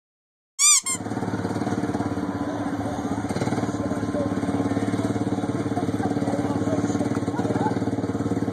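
Engine of a Plymouth-powered go-kart running steadily with an even, rapid pulse, cutting in suddenly after a brief sharp chirp.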